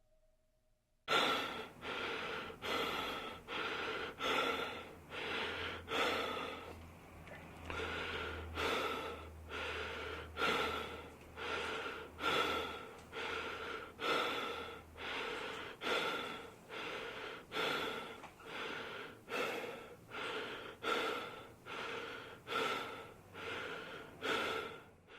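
Close-miked mouth sounds, short breathy rushes repeating steadily a little more than once a second, starting about a second in.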